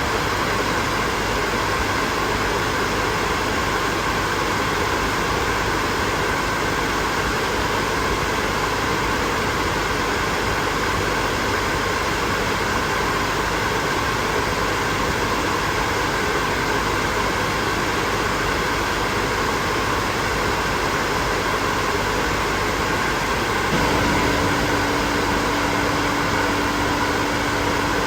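Hair dryer running steadily: a constant rush of blown air over the motor's hum. About 24 seconds in, the sound steps up slightly and a steady low hum joins it.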